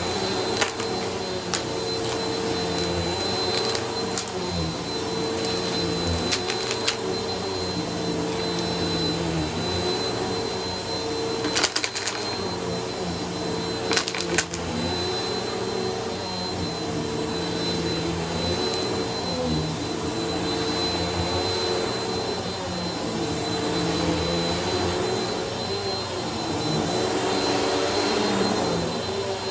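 Bissell vacuum cleaner running on a shag rug: a steady motor hum with a high whine that rises and falls slightly as it is pushed. A few sharp clicks and rattles break in, loudest near the middle.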